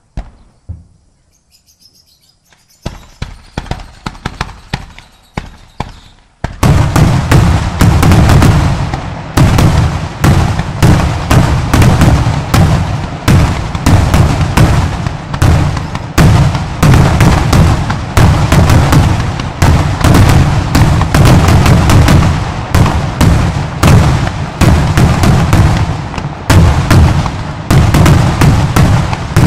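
Aerial fireworks salutes going off: near quiet at first with a single bang, then scattered sharp reports, and from about six seconds in a dense, continuous barrage of rapid bangs.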